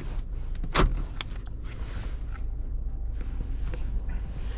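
Steady low rumble of a car cabin, broken by a couple of sharp knocks or clicks: one at the start and a louder one just under a second in.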